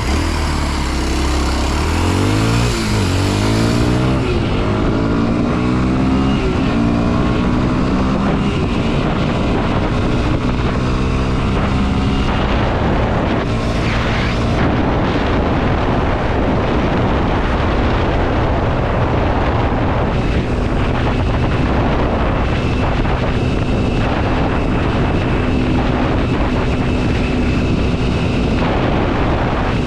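Kawasaki KLX 230 SM's single-cylinder four-stroke engine under way, its pitch climbing in steps through the gears in the first few seconds, then running at a steady pace under a rush of wind noise.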